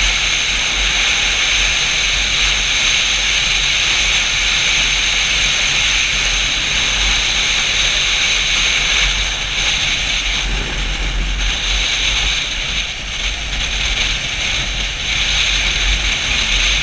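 Steady wind noise buffeting the microphone of a moving Yamaha FZ-07 motorcycle, a hissing rush over a low rumble, with no clear engine note standing out. It lets up somewhat for a few seconds in the middle.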